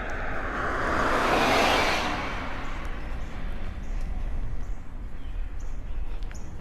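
A car passing on the road, its tyre and engine noise swelling to a peak about one and a half seconds in and fading away by about three seconds. Wind rumbles on the microphone, with light footsteps and faint bird chirps after the car has gone.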